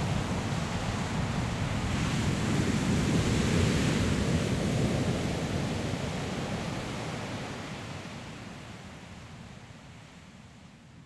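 Sea waves breaking and rushing on a pebble shore, with wind, as a steady roar. A wave swells up a few seconds in, then the whole sound fades steadily away toward the end.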